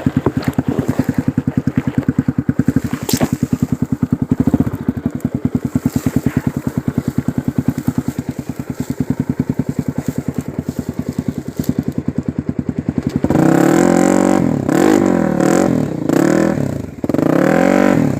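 Single-cylinder four-stroke trail motorcycle engine running at low revs with an even beat. About 13 seconds in it is revved up and down several times in quick surges.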